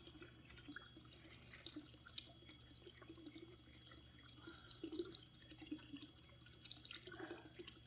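Near silence, with faint water trickling and dripping.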